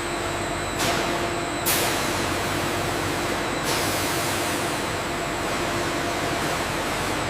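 Industrial machinery running steadily: a low hum with an even hiss over it, the hiss brightening briefly about a second in and again near two seconds.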